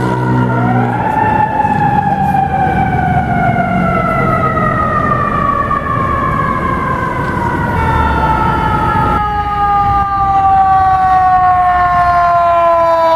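Fire truck siren winding up briefly, then dropping slowly and steadily in pitch as it winds down, with engine and road rumble underneath. A steady air horn blast ends about a second in.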